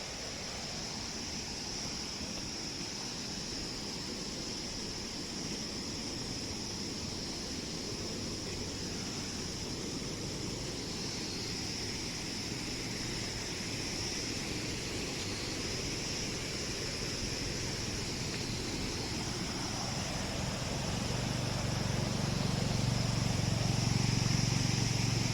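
Steady rushing of a river with an even high-pitched drone above it. A low engine hum grows louder over the last few seconds.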